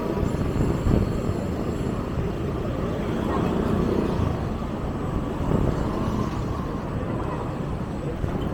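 Street ambience heard from a moving bicycle: a steady low rumble of road and motor-traffic noise with no distinct single event.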